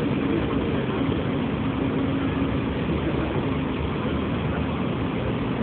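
Radio-controlled model boat's motor running steadily, a constant hum over a rushing noise with no change in speed.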